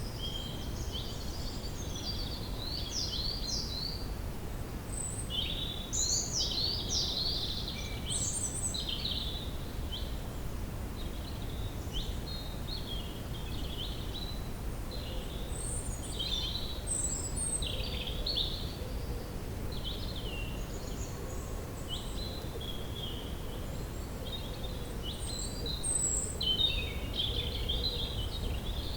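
Woodland ambience: birds chirping and singing in quick, overlapping calls over a steady low background rumble.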